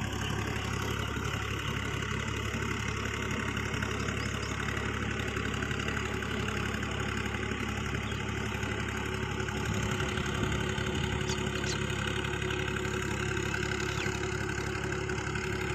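Universal 533 tractor's diesel engine running steadily, a constant low hum with no change in speed.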